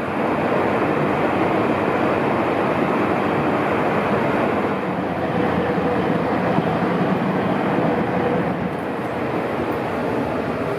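Train running: a steady, even running noise, with a faint steady tone rising out of it around the middle.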